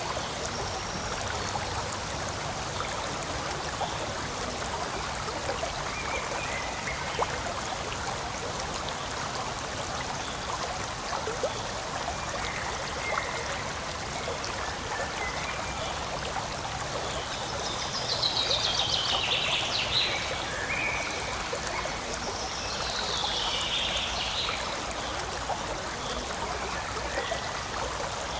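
Forest stream flowing and trickling over rocks in a steady, continuous rush, with a couple of short high chirps in the second half.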